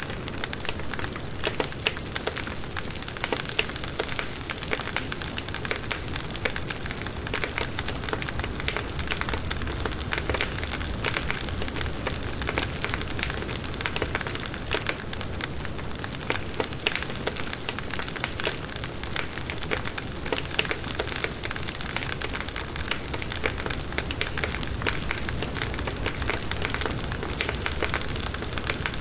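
Firewood burning in a campfire: a steady hiss with many small irregular crackles and pops.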